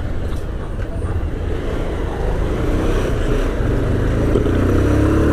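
Motorcycle engine running while riding, with wind rumbling on the microphone; the engine note grows louder and rises slightly in the last couple of seconds as the bike speeds up.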